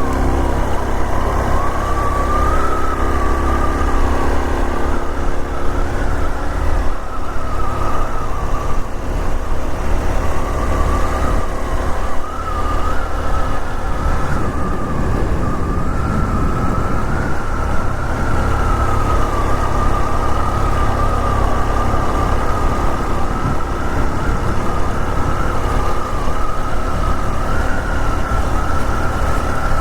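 Honda Super Cub 125's 125 cc single-cylinder engine running under way, heard with rushing wind. A steady high whine that wavers slightly in pitch runs over it throughout.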